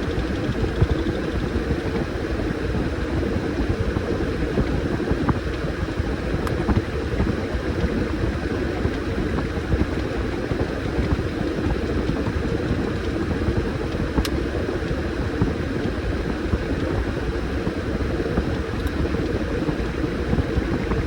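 Washing machine running with a load of towels: a steady rumble of the motor and turning drum, with a couple of faint ticks.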